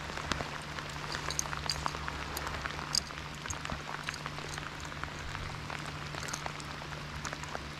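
Rain falling on the water and the boat, an even hiss with many individual drops ticking close by. A steady low hum runs underneath.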